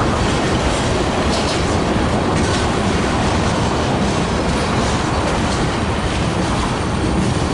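A freight train rolling past, a steady loud rumble of railcars with wheels clicking over rail joints.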